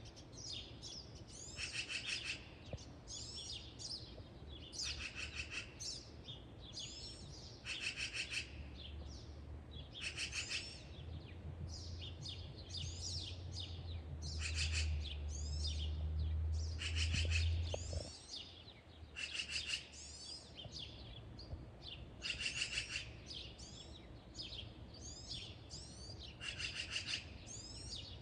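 A songbird singing a short, fast trilled phrase over and over, about every two to three seconds. A low rumble builds through the middle and cuts off suddenly.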